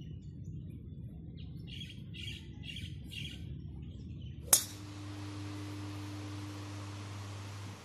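A bird calling outdoors, a quick series of about four chirps around two to three seconds in, over a low outdoor rumble. A sharp click about four and a half seconds in, after which a steady indoor ventilation hum takes over.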